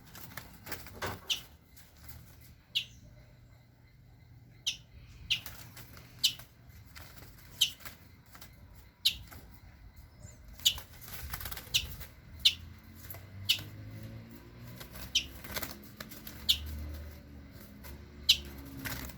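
Small caged wild birds fluttering and flapping their wings in a cage, in short sharp flurries at irregular intervals, about one a second.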